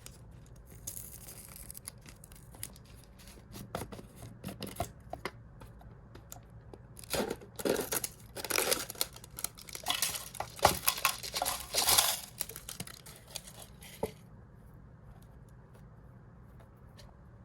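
Plastic food packet crinkling and rustling as it is handled and torn open, with scattered light clicks; the rustling is loudest and busiest in the middle stretch, then dies down near the end.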